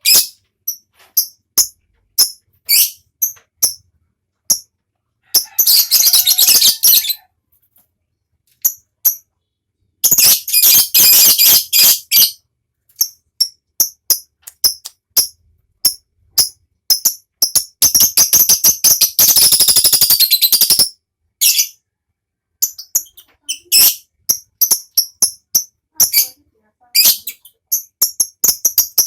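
Lovebird singing its long, fast chattering trill (ngekek): three runs of a few seconds each, broken up by sharp, high single chirps.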